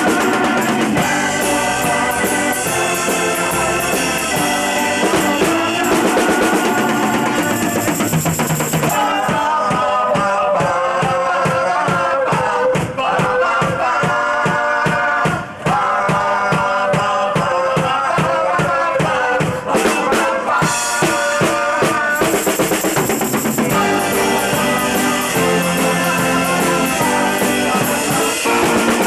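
Live rock band playing, with a drum kit keeping a steady beat under guitar and other instruments. From about nine seconds in until about twenty-two seconds, the cymbal wash drops away, leaving held, pitched lines over evenly spaced drum hits, before the full band comes back in.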